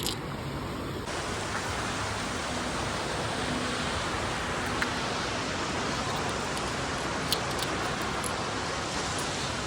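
Ocean surf washing on the beach, heard as a steady rushing hiss.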